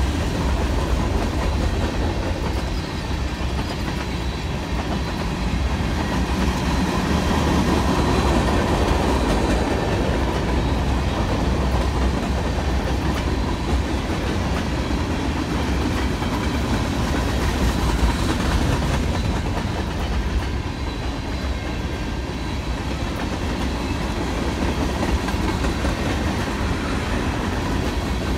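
Freight train cars rolling past in a steady rumble, their wheels clacking over rail joints, with one sharper bang partway through.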